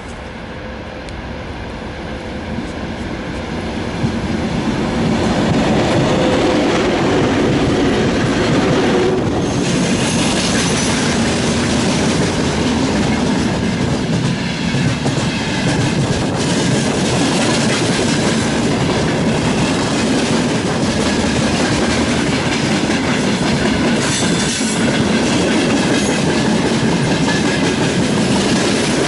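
VL80S electric locomotives with a freight train approaching and passing, the wheels clicking over rail joints with a steady rolling rumble. It grows louder over the first five or six seconds, then holds steady as the wagons roll by.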